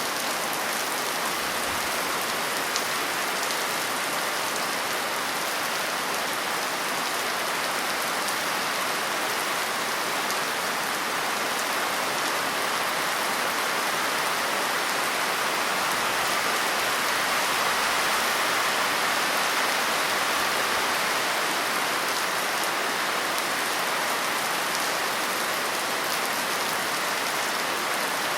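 Steady rain falling on a surface, a dense even hiss of many drops.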